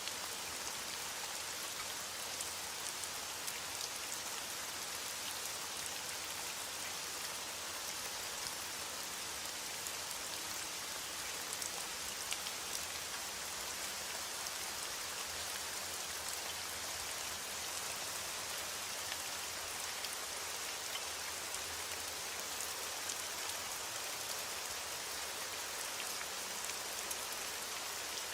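Steady rain, an even hiss of many fine drops falling onto a surface, with no change in intensity.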